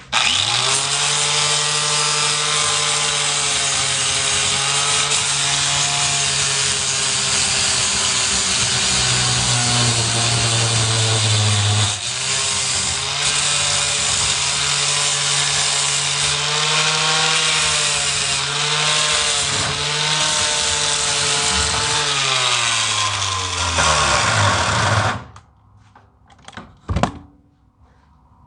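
Electric angle grinder running steadily, its motor pitch dipping briefly about halfway through, then winding down with a falling whine near the end.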